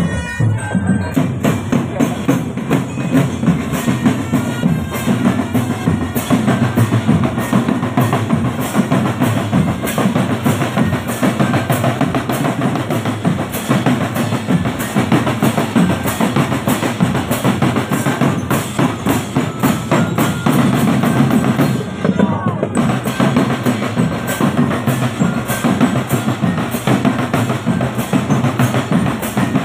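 Marching drum band playing a steady, driving beat on bass drums and other drums, with dense rhythmic strokes throughout and a brief break about 22 seconds in.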